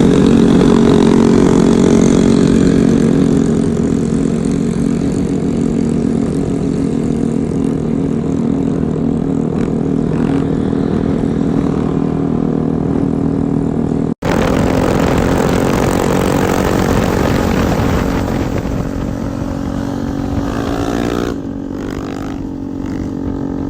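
Honda CRF single-cylinder four-stroke engine running steadily at a fast idle, breaking off for an instant about 14 seconds in. Near the end the pitch rises slightly, then drops back to a lower, quieter idle.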